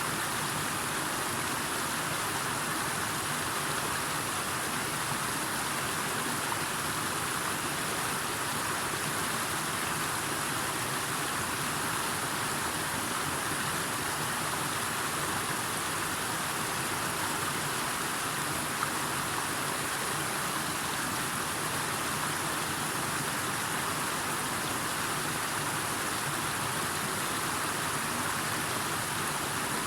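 Steady rushing water sound, even and unbroken throughout.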